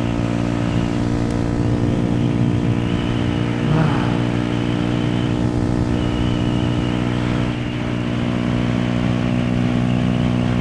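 Yamaha YZF-R125's single-cylinder four-stroke engine running at steady cruising revs on the move. The engine note dips briefly about seven and a half seconds in.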